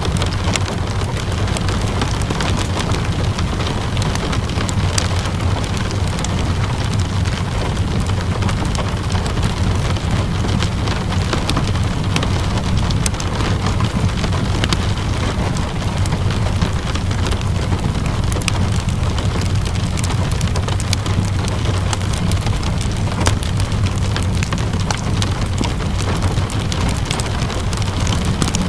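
Steady rain with a deep low rumble underneath, and scattered sharp crackles from a wood fire burning in a fireplace.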